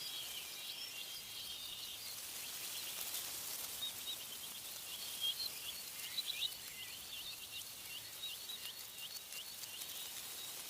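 Songbird singing: a brief warbling phrase, then a long run of short repeated chirps, a few a second, over a steady hiss of wind in the trees.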